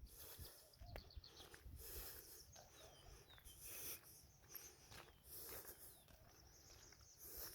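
Faint outdoor ambience with a few brief, high, falling chirps and soft hiss.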